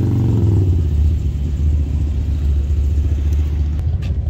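A vehicle engine running with a deep, steady low rumble, its pitch shifting briefly at the start. A few faint clicks come near the end.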